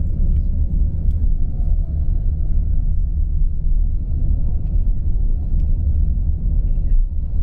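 Steady low rumble of a moving tour bus, its engine and tyres heard from inside the passenger cabin, with a few faint clicks and rattles.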